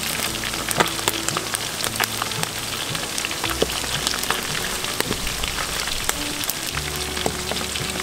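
Frog pieces frying in hot oil in a metal wok: a steady sizzle with frequent sharp crackles and pops.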